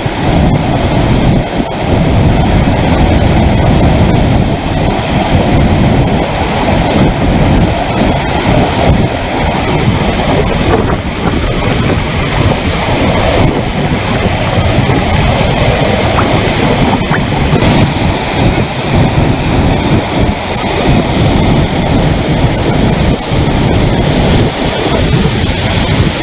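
Floodwater rushing, a loud steady wash of water noise, heaviest and deepest in the low range.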